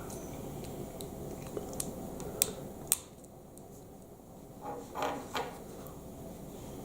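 Plastic Lego Technic pieces clicking and clattering as they are handled and fitted together: a few sharp clicks in the first three seconds, then a short rattle of parts about five seconds in.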